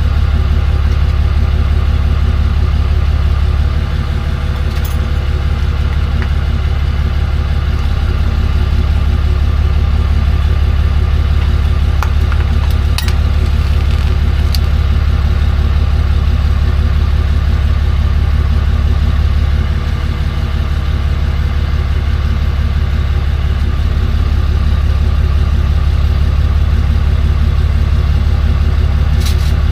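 Tow truck's engine idling steadily with a deep, even hum. A few sharp clicks come through about twelve seconds in and again near the end.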